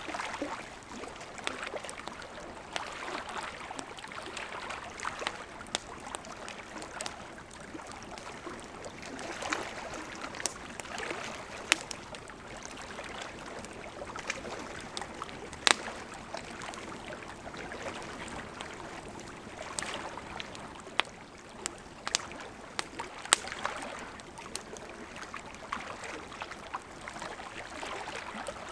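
Wood campfire burning with a steady hiss and crackle, broken by scattered sharp pops, a few of them much louder than the rest.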